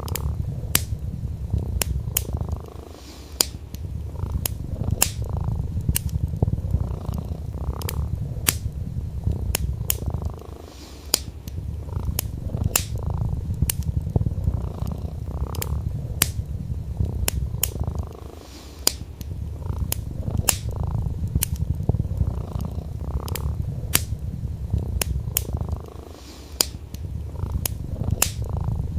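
Domestic cat purring, a steady low rumble that eases off briefly every seven or eight seconds, layered with the sharp, irregular pops and crackles of a wood fire burning in a fireplace.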